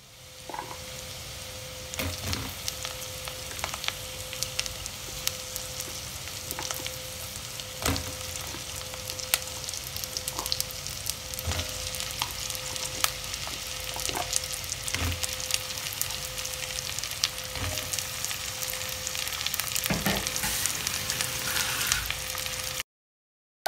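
Chopped onion, then pumpkin and potato cubes, frying in butter in a glass pot: a steady sizzle full of small crackles. A few soft knocks come at intervals.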